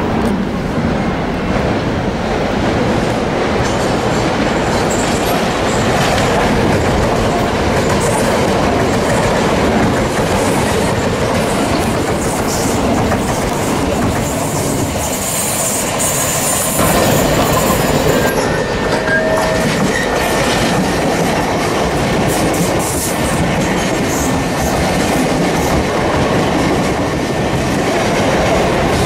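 Southern Class 377 and Gatwick Express Class 442 electric multiple-unit trains passing close by at speed, a continuous rumble and rattle of wheels on track. There is a high-pitched squeal for a few seconds about halfway through.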